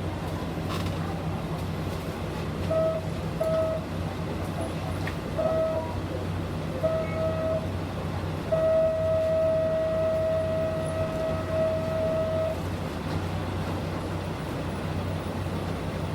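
City bus engine running with a steady low hum, heard from inside the cabin. A single-pitched beeping tone sounds in short pairs a few times and is then held for about four seconds.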